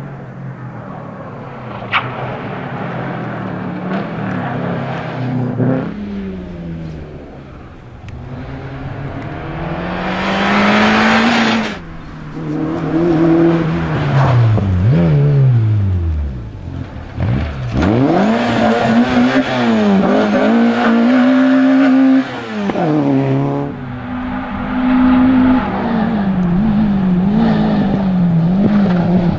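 Rally car engine driven hard on a stage, revving up through the gears and dropping back again and again. It is loudest at full throttle about a third of the way in and again past the middle, with a long falling sweep in pitch in between as the car slows or passes.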